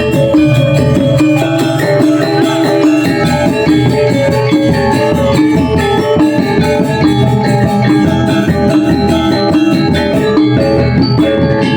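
Balinese gong gamelan playing a tabuh alus, a refined instrumental piece: bronze metallophones and gongs in a dense, steady ring of many pitched tones.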